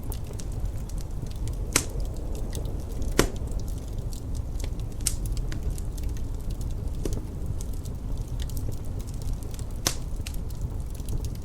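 Wood fire crackling with many small snaps and three louder pops, over a steady low rumble of wind.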